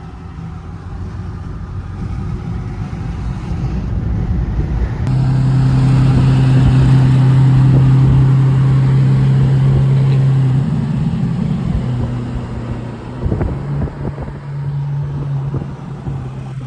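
Lamborghini Aventador SV Roadster's V12 with a Balboni exhaust running at a steady, even engine note. It grows louder to a sustained drone through the middle, changing abruptly about five seconds in, and then eases off after about ten seconds.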